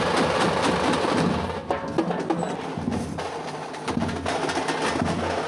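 Tamate frame drums beaten with sticks in a fast, dense rhythm. It drops a little in level about a second and a half in, then picks up again near the end.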